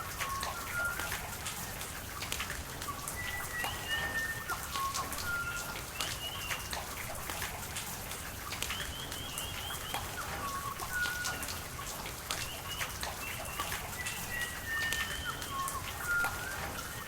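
Rain falling steadily, with many close drops pattering and dripping. A bird calls over it in short whistled notes that step down in pitch, repeated several times.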